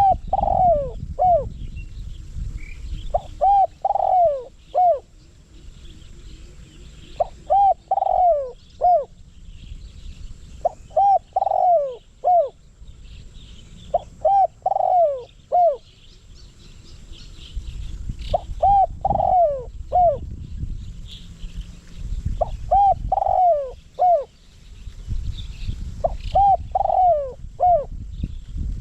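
Spotted dove cooing, a decoy bird calling the same short phrase of three or four falling notes over and over, about every three and a half seconds. Faint chirps of other birds and a low rumble come and go underneath.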